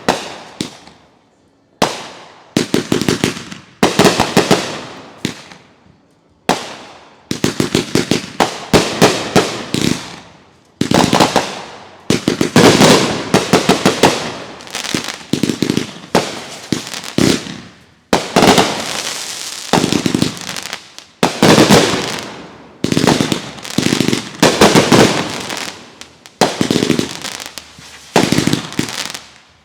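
Consumer fireworks going off in rapid volleys: dense runs of sharp bangs and crackles, each run dying away over a second or two, with brief lulls between them.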